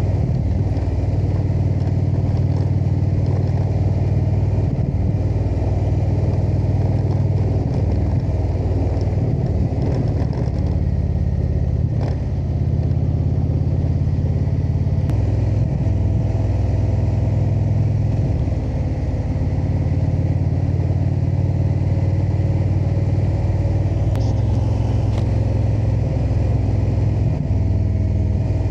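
Indian cruiser motorcycle's V-twin engine running under way on the road, its note stepping up and down several times as the throttle and gears change, with wind noise over it.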